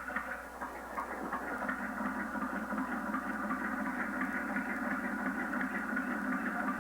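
Small DC electric motor driving a scale model engine's moving parts, running steadily with a fine, even ticking of the mechanism.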